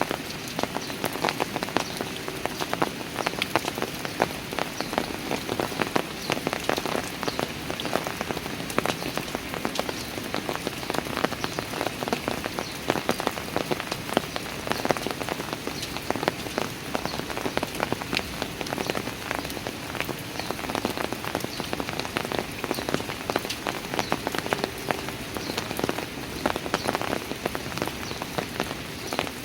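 Steady rain falling on park stairs and surrounding surfaces, a continuous patter with many close, distinct drop hits.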